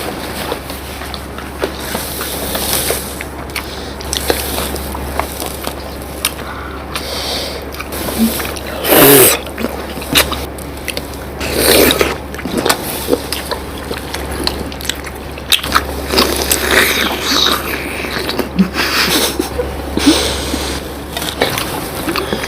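Close-up eating sounds of syrup-soaked rasgullas being chewed and squished, with scattered small wet clicks and two louder slurping bursts about nine and twelve seconds in. A steady low hum runs underneath.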